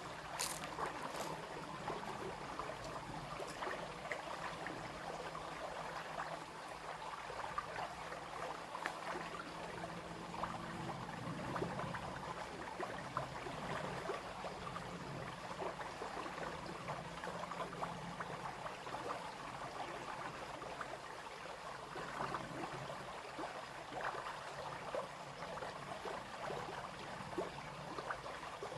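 Small brook babbling and splashing over stones in a steady, even rush of water, with a few sharp splashes right at the start.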